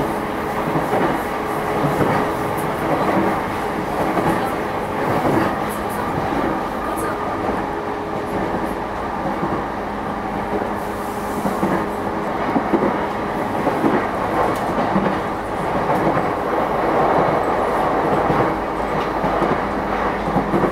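JR E233 series electric commuter train running at speed, heard from inside the passenger car: steady rolling noise with a constant hum and occasional clacks from the wheels over rail joints.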